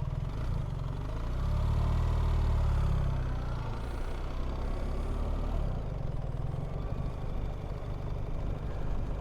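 BMW R1300GS boxer-twin engine pulling away at low speed: the revs rise for a couple of seconds, starting about a second and a half in, then settle to a steady, gentle run.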